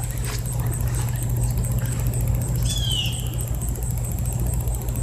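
A bird gives a short, downward-sliding chirp about halfway through, over a steady low rumble, with a single click near the start.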